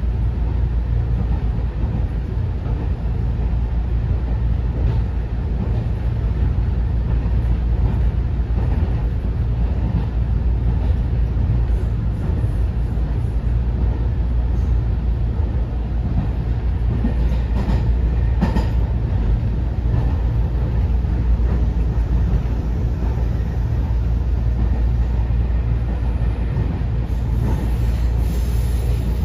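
Interior running noise of a JR West 207 series 2000-subseries commuter train's motor car (Mitsubishi IGBT VVVF), heard from inside the car: a steady rumble of the wheels on the rails at speed, with a few brief clicks about two-thirds of the way through.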